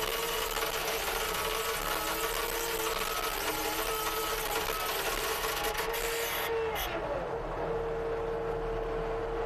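CASE TR270B skid steer running steadily with a constant whine over a dense hiss. About seven seconds in, the hiss drops away and the whine dips slightly in pitch, then holds steady.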